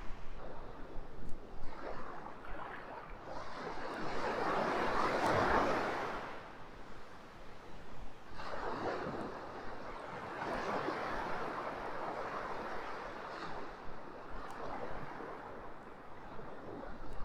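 Surf washing onto a sandy beach, the noise of each wave swelling and fading away over a few seconds.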